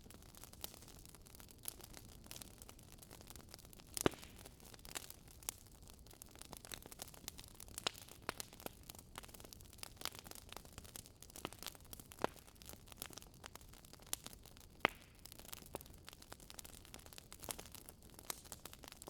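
Wood fire crackling in a fireplace: a steady faint hiss with irregular snaps and pops from the burning logs, two louder pops about 4 and 15 seconds in.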